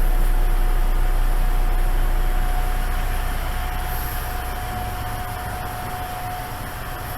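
Diesel railcar's engine running with a low rumble and a steady whine, growing gradually fainter.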